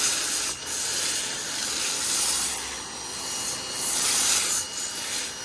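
Pressure washer spraying through a foam cannon: a loud, steady hiss of spray that swells a few times and stops at the very end.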